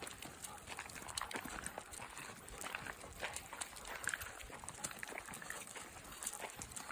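Footsteps crunching on a gravel road, an uneven run of short scuffs and clicks.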